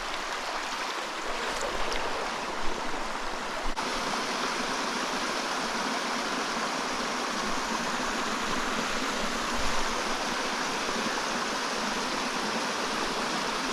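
Steady rushing and splashing of a small rocky mountain stream, with a sharp click about four seconds in.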